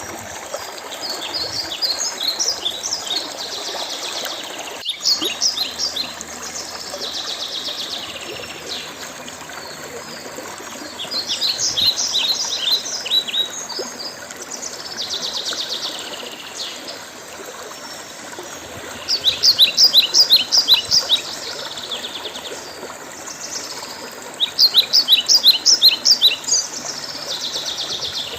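Songbirds singing in repeated phrases of rapid high notes, the loudest phrases near the end, over the steady trickle of a running stream.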